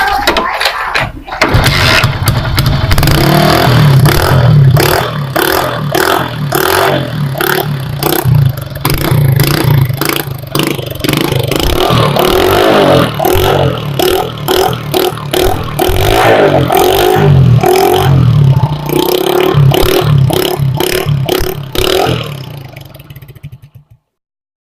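Small motorcycle engine running through its silencer with the black baffle nozzle pulled out of the exhaust pipe, blipped up and down over and over. It stops near the end.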